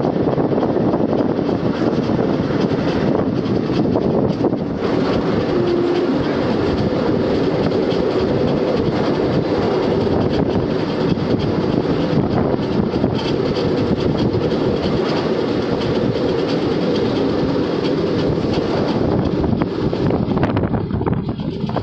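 A passenger train running steadily, with a continuous rumble of coach wheels on the rails.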